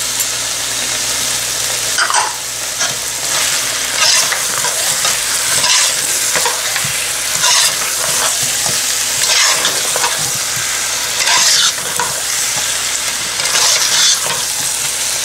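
Goat meat and potatoes frying in oil with yogurt just added, sizzling steadily, while a metal spatula stirs and scrapes through the pot in strokes about every two seconds.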